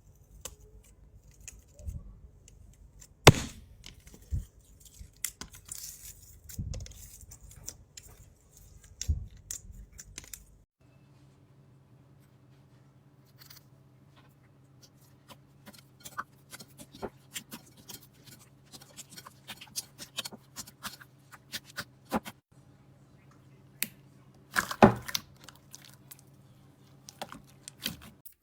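Slime being squeezed, poked and stretched by hand, making irregular crackles, clicks and pops. About eleven seconds in, the sound changes to sparser clicks over a low steady hum.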